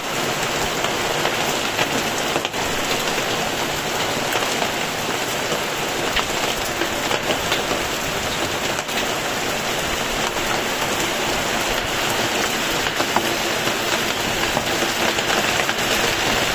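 Heavy rain falling steadily: a dense, even hiss of rain on the ground and surfaces, with a few sharper drop hits here and there.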